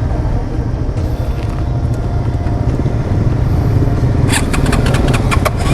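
Motorcycle riding on the road: a steady low rumble of engine and wind. A quick run of sharp clicks or rattles comes about four seconds in.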